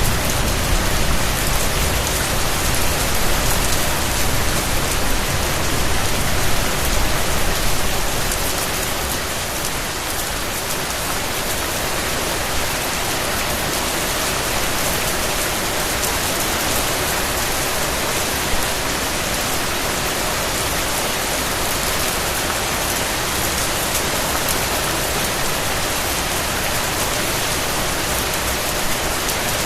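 Steady rain falling, an even hiss of many drops. A low rumble underneath fades out about eight seconds in.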